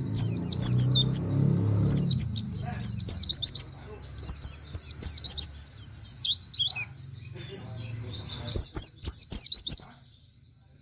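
A white-eye (pleci) singing in quick phrases of high, rapidly falling whistled notes, the canary-like "wit wit" song, with short pauses between phrases. A low muffled rumble sits under the first two seconds, and a few sharp clicks come near the end.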